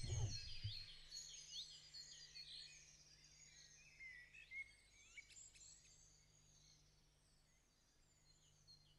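Faint birdsong: many short chirps and whistles from several birds, thinning out towards the end. The last low note of a music track dies away about a second in.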